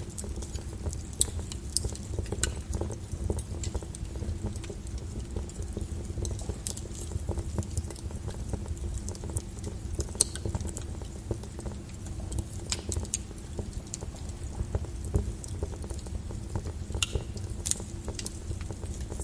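Wood fire in a fireplace crackling, with irregular sharp pops, layered over steady rain and a low rumble.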